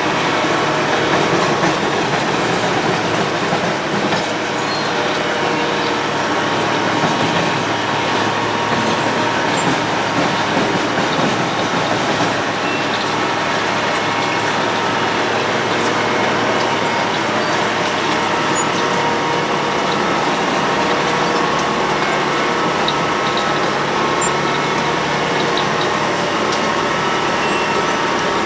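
Road planer (cold milling machine) at work: a loud, steady mix of diesel engine and milling-drum noise, with faint steady tones running through it and no break.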